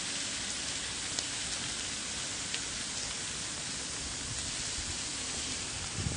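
Kimchi sizzling steadily on a hot grill plate, with a couple of light clicks.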